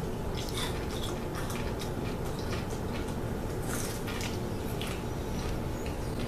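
Faint, irregular crunching and clicking of a hard-boiled egg being bitten and chewed with its shell on, over a steady low hum.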